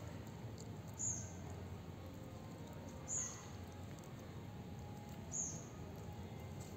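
A bird calling a short, high, falling chirp three times, about two seconds apart, over a low steady background rumble.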